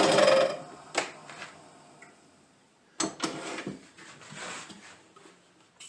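A workshop power tool, used for drilling the briar pipe bowl, running and then cutting off about half a second in. This is followed by a few light clicks and knocks of the workpiece and tools being handled.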